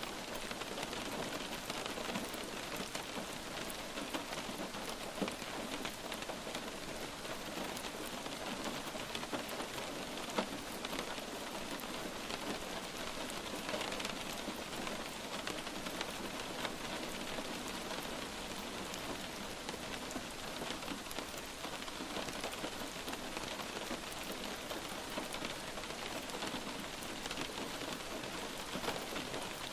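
Steady rain falling and pattering on a surface, a dense even hiss sprinkled with many small drop ticks.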